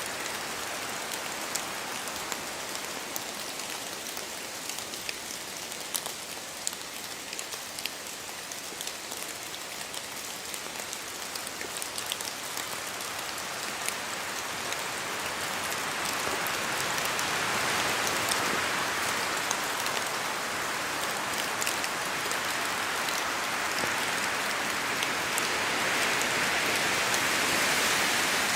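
Rain falling in a spruce forest, with many single drops heard as sharp taps as they fall from the branches. Wind through the trees swells twice, once about halfway through and again near the end.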